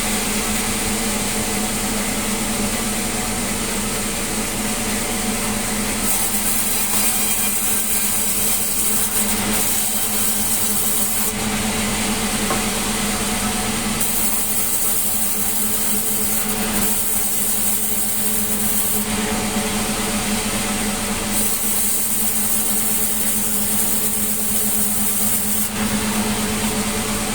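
Sawmill saw running steadily while cutting melinjo wood: a constant machine hum under a hiss that grows stronger and weaker every few seconds.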